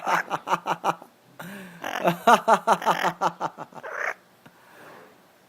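Pet talking bird calling in quick strings of repeated pitched notes. A short run comes first, then a longer one of about two and a half seconds, stopping about four seconds in.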